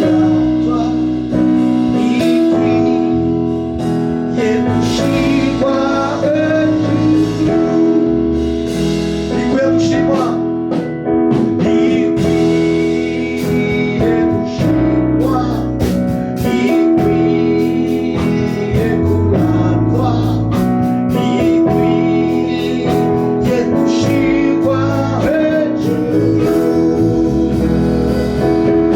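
Gospel praise-and-worship band music: sustained keyboard chords changing every few seconds with a steady beat, and a voice singing over it at times.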